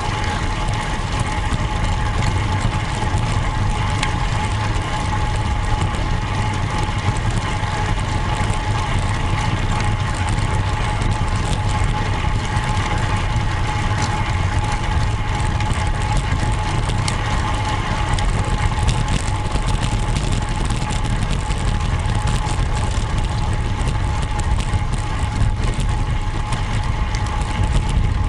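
Road bike in motion: steady tyre and road noise with wind rumble on the microphone, a constant whine and scattered light ticks from the bike.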